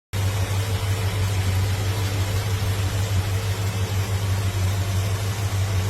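A car engine running steadily: a low, even hum with a hiss over it, starting and cutting off abruptly.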